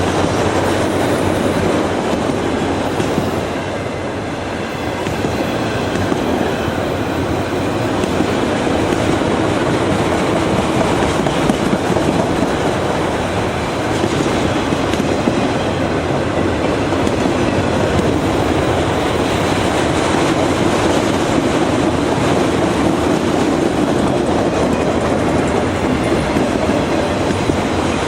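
Train rolling past on the rails: a loud, steady noise of steel wheels on track.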